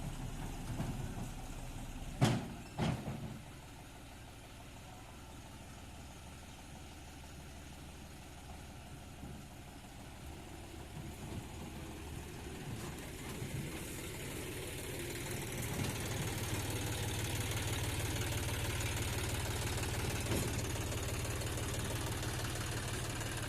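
Diesel engine running, with two loud bangs in quick succession about two seconds in. The engine fades lower for a while, then grows louder from about halfway through and holds steady.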